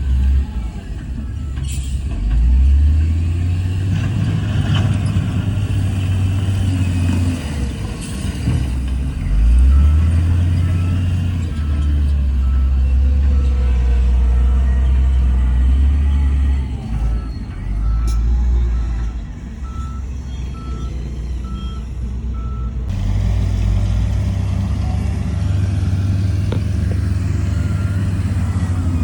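Heavy diesel engines of earthmoving machines working, their low drone rising and falling in pitch as they are throttled up and down. Through the middle a reversing alarm beeps steadily at one pitch, a bit under two beeps a second, then stops.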